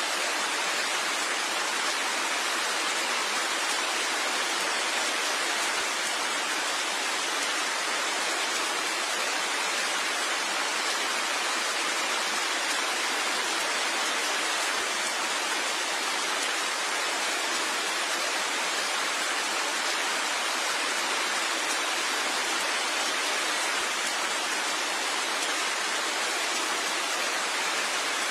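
Steady rain: an even, unbroken hiss of falling water with no separate drops or pauses.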